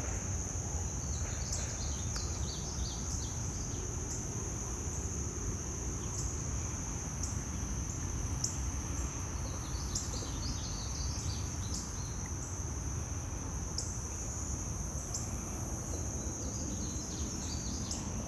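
A continuous high, steady insect trill, with a bird singing short bursts of quick chirping notes three times (about a second and a half in, around ten seconds in, and near the end). A low rumble runs underneath.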